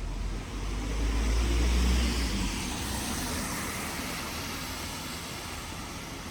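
A car passing on a wet road: engine rumble and tyre hiss swell to a peak about two seconds in, then slowly fade.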